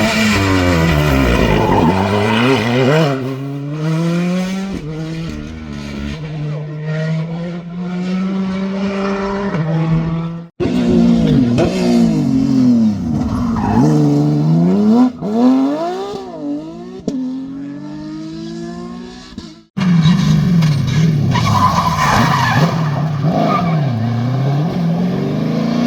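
Rally cars driving flat out, engines revving hard and rising and falling in pitch through gear changes as they pass. The sound cuts off abruptly twice, about ten and twenty seconds in, as another car takes over.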